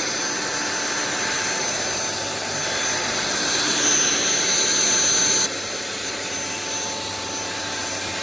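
Cordless stick vacuum cleaner (Sulean X8) running with a steady motor whine. About five and a half seconds in, it suddenly becomes quieter and less shrill and keeps running.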